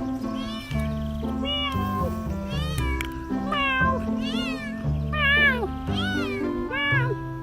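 A run of cat meows, about one or two a second, over background music with steady held notes and a bass line.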